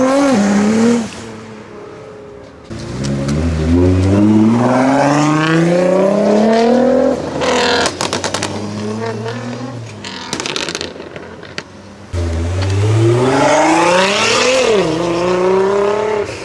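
Performance car engines accelerating hard, revs climbing steeply with quick upshifts, in three separate pulls. Between them, exhaust pops and crackles as the throttle closes.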